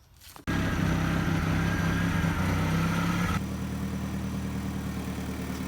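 A motor running steadily. It starts abruptly about half a second in, and its tone changes and drops slightly in level a few seconds later.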